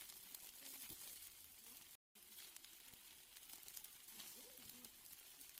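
Steaks sizzling faintly on a grill, a steady hiss with fine crackles of spitting fat. The sound cuts out for a split second about two seconds in.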